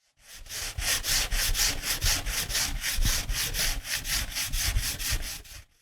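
Wooden piece being worked by hand with quick back-and-forth rasping strokes, about four to five a second, steady throughout.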